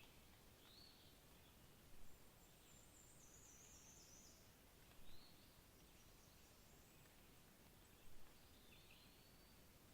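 Wild birds calling over faint background hiss: short high chirps every few seconds, and a thin, high trill that steps downward a couple of seconds in.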